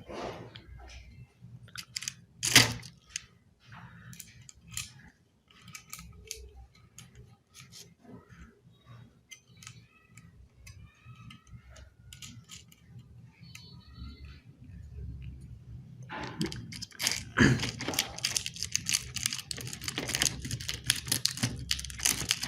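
Toy helicopter kit pieces being handled and fitted together: scattered clicks, one sharp click about two and a half seconds in, then dense rapid clicking and rattling over the last six seconds.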